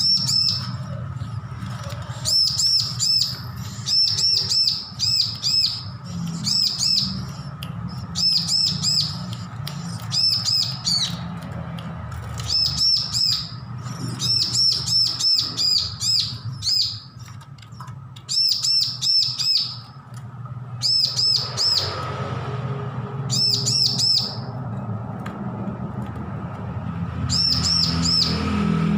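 Bar-winged prinia chirping in repeated bursts of quick, high notes with short pauses between them, over a low steady rumble.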